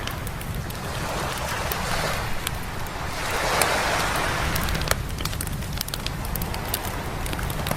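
Waves washing onto a beach, one swelling hiss that peaks about halfway through and eases off, over a steady low rumble of surf. A wood campfire crackles and pops throughout with many sharp little snaps.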